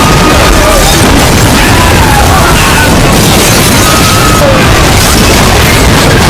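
Extremely loud, overdriven audio: a constant wall of clipped, distorted noise with faint traces of voices or music buried in it.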